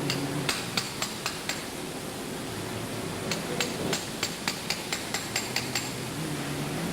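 Hammer tapping on metal in two runs of short, sharp strikes, the second run at about four to five taps a second, over a steady background hiss.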